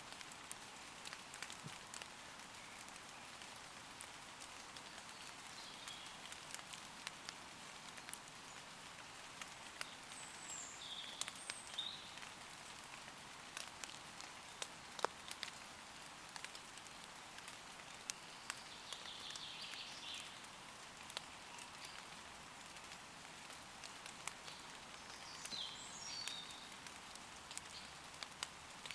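Steady light rain pattering on leaves, with scattered single drops ticking close by. Birds call faintly in the distance now and then, short chirpy phrases.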